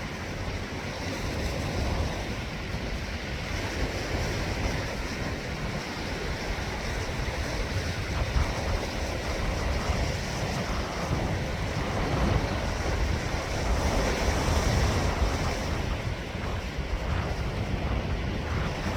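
Sea waves washing ashore in a steady surge that swells and eases, with wind buffeting the microphone in a low rumble.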